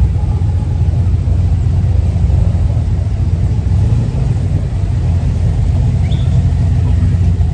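A vehicle engine idling steadily with a deep, even rumble.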